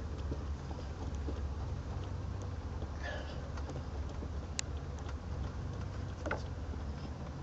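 1973 Pontiac Catalina's V8 engine running as the car is driven slowly, a steady low drone heard from inside the car, with a couple of faint clicks.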